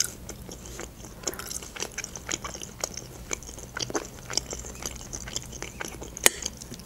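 A person chewing food close to the microphone: a run of soft, wet mouth clicks and smacks, with a sharper click right at the start and another about six seconds in.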